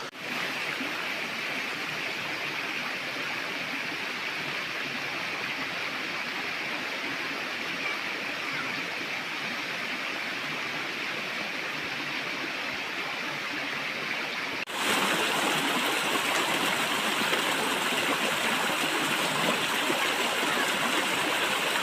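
Running water of a stream rushing steadily. About two-thirds of the way through it cuts off abruptly and comes back a little louder.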